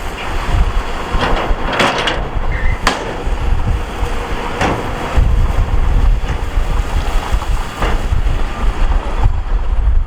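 Heavy earthmoving machinery running, with wind buffeting the microphone and a few sharp knocks from the work.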